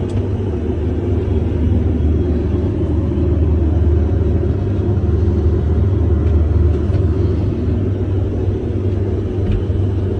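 Steady in-flight cabin noise of an Airbus A320 airliner: an even, deep rumble of the engines and the air rushing past the fuselage.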